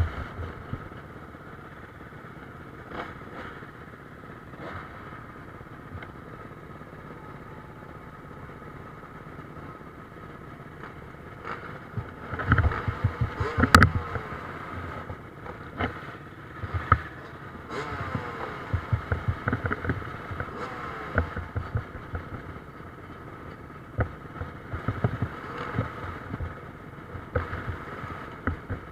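Motocross motorcycles racing on the track, engines revving up and down as riders pass. It is quieter in the first part and louder from about the middle on, with one sharp crack near the middle.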